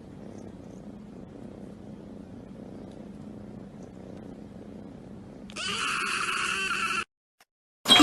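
Domestic cat purring steadily. About five and a half seconds in, a louder, higher-pitched sound lasts about a second and a half and cuts off suddenly.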